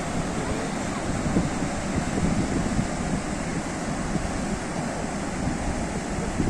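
Sea surf: a steady, continuous rush of waves washing on the shore, with wind rumbling on the microphone.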